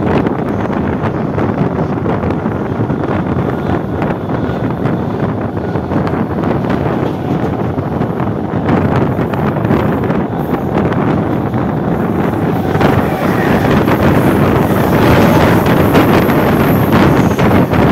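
Steady rush of a moving electric suburban local train heard from its open doorway: wheel-and-rail running noise under heavy wind on the microphone. From about two-thirds of the way in it grows louder as another local train passes close by on the next track.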